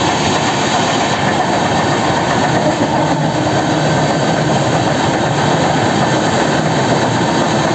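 Passenger trains passing each other at speed, heard from the open door of one: a steady, loud rush of wheels on rails as the other train's coaches go by close alongside.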